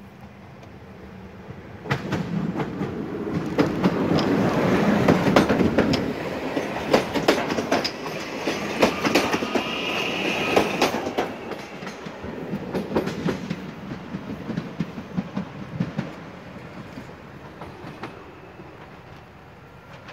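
Electric multiple unit train passing close by: the sound rises suddenly about two seconds in, with the rumble of the cars and a rapid clacking of the wheels over the rail joints, then fades away over the last several seconds.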